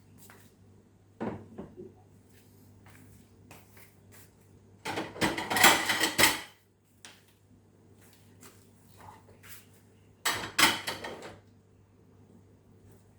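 Kitchen clatter of cookware and dishes being handled: a light knock about a second in, then two loud rattling bursts, one lasting about a second and a half near the middle and a shorter one near the end.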